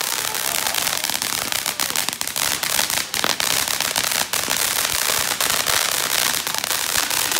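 A ground fountain firework spraying sparks with a dense, continuous crackle of rapid pops over a hiss, running without a break.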